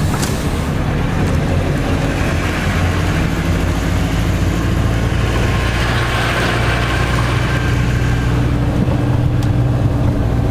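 Iveco Daily van's engine and road noise heard from inside the cab while driving: a steady, even drone.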